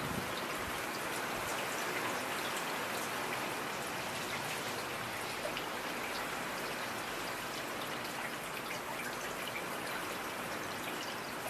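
Steady rain falling, with many small raindrop ticks scattered over an even hiss.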